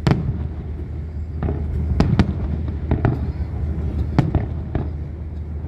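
Fireworks bursting overhead: about eight sharp, irregularly spaced bangs, two or three close together near the middle, over a steady low rumble.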